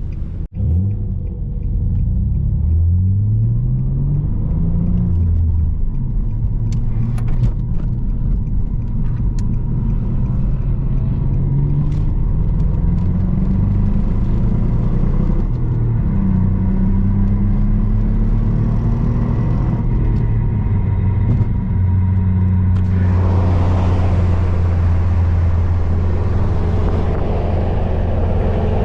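Six-speed manual Nissan Altima's engine heard from inside the car, its pitch climbing in several runs and falling back between them as it pulls through the gears. A loud rush of wind and road noise joins it for the last several seconds.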